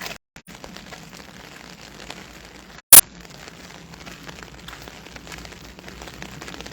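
Steady hiss and patter of rain. A very loud, short burst of noise cuts in about three seconds in, right after a brief drop-out of the sound.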